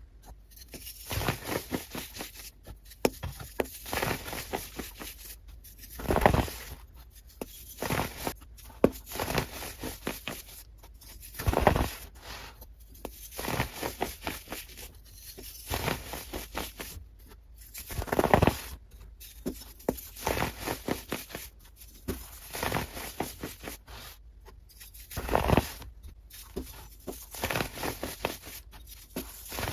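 Sped-up ASMR trigger sounds: a fast, irregular run of crisp clicks, scratches and rustling, with a louder burst every five or six seconds.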